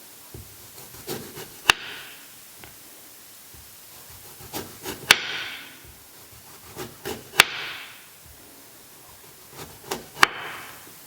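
Kitchen knife cutting on a wooden board: four sharp strikes, about one every two to three seconds. Each has a few lighter taps before it and a brief hiss after it.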